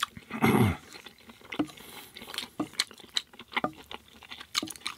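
Close-miked eating sounds: wet chewing and mouth clicks on a mouthful of pasta, with small taps of a fork and wooden spoon as pasta is twirled. A brief louder burst with a low falling sound comes about half a second in.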